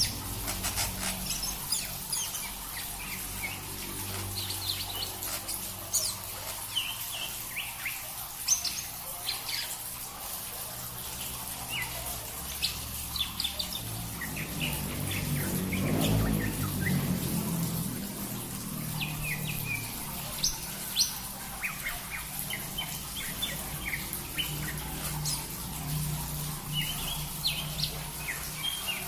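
Songbirds chirping: many short, high calls scattered throughout, over a low steady hum that swells briefly about halfway through.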